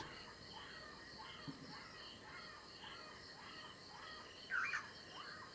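Bush ambience: a steady chorus of insects chirring, with birds chirping repeatedly and one louder bird call about four and a half seconds in.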